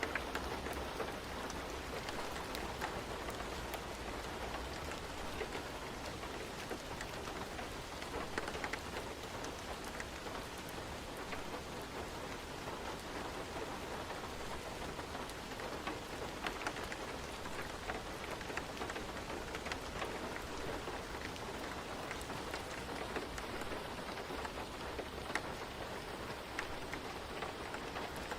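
Steady rain falling, a constant hiss dotted with scattered sharp ticks of drops.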